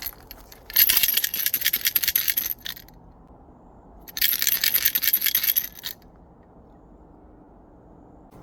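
Two bursts of rapid rattling, each lasting about two seconds, with a short pause between. The hiker is making the noise to warn off any wildlife on the trail ahead.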